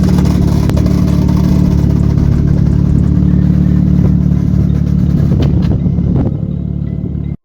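Car engine running steadily at held revs, with a rushing hiss above it; it cuts off suddenly near the end.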